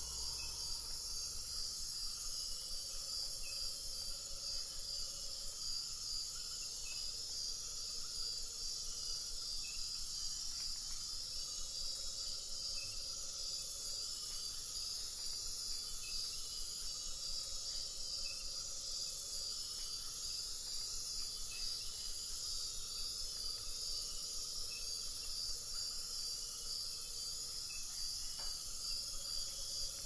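Rainforest insect chorus: a dense, steady high-pitched buzz with a rapid pulsing trill from crickets and other insects, and scattered faint short chirps.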